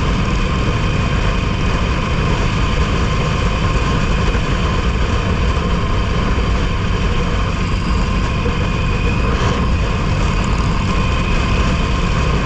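Harley-Davidson motorcycle riding at highway speed: its engine runs steadily under a heavy, constant rumble of wind on the microphone and tyre noise on the road surface.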